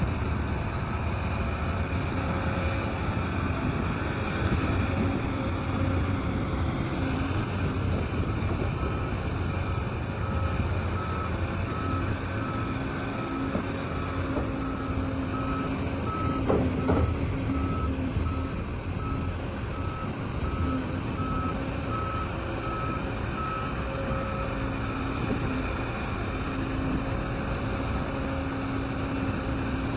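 Heavy diesel machinery running steadily at a mine loading site, with a vehicle's reversing alarm beeping at an even pace, a little over once a second, from about ten seconds in until near twenty-five seconds. A brief louder sound comes about seventeen seconds in.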